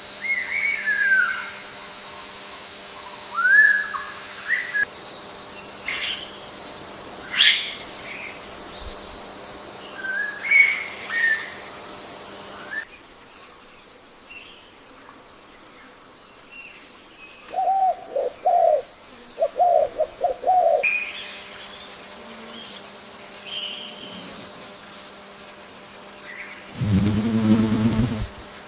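Forest birds calling: short whistled notes that slur downward, a sharp click, then a quick run of lower notes. Near the end there is a loud, harsh, low call lasting over a second. Faint steady high tones run in the background in places.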